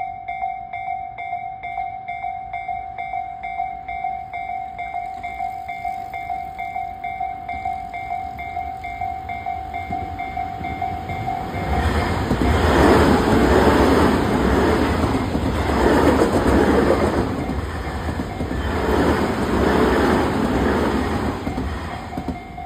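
Level-crossing warning bell ringing in a steady, rapid rhythm. About halfway through, a Tobu Railway electric commuter train runs past and its clatter over the rail joints comes in loud swells, drowning out the bell until near the end.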